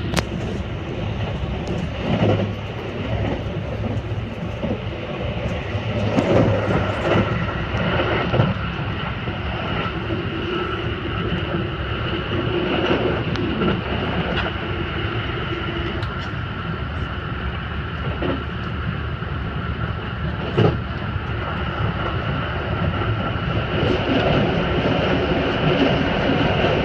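Haruka airport express train heard from inside the carriage, running at speed: a steady rumble of wheels on rail with a faint whine, broken by a few sharp knocks, and growing a little louder near the end.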